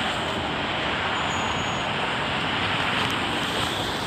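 A departing passenger train rolling past, with a steady rush of wheel and rail noise.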